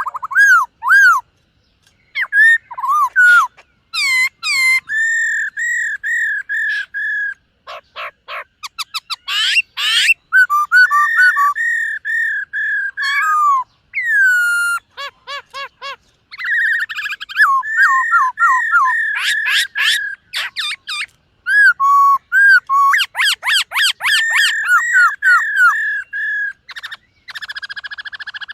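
Black-throated laughingthrush singing a long, varied song of clear whistled phrases, many built of quick repeated notes that rise and fall, broken by short pauses of a second or two.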